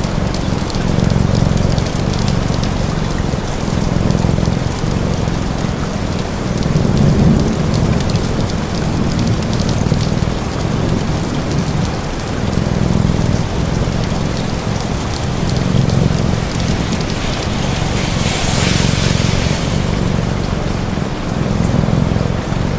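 Steady rain, with a cat purring over it in slow, even swells. About eighteen seconds in, the hiss briefly grows louder for a couple of seconds.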